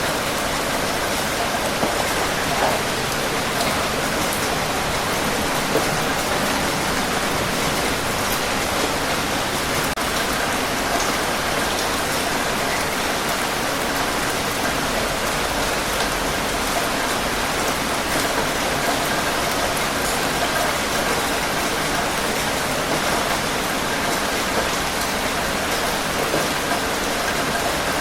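Steady rain falling on a hard surface, an even hiss with scattered individual drop ticks.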